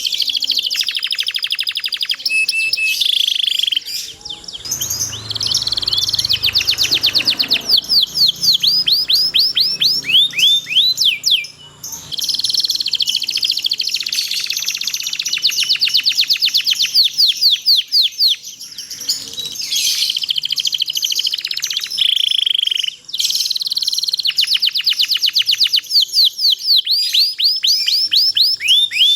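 Domestic canary singing long rolling trills: rapid runs of high, quickly repeated sweeping notes, one series after another with only brief pauses.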